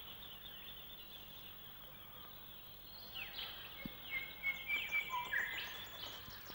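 Faint birds chirping: a thin high call at first, then a scattering of short chirps and brief gliding notes from about three seconds in.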